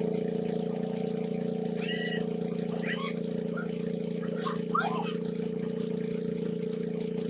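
A small engine running steadily at one constant speed, a continuous hum with no revving, with a few short high chirps over it.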